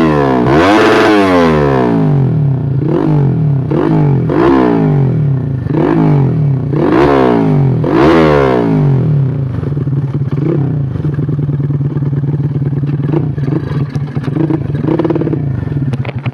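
Modified Yamaha Jupiter Z 130cc single-cylinder four-stroke underbone motorcycle engine, revved again and again in quick throttle blips, the pitch rising and falling each time, then settling to a steady low idle before stopping at the very end.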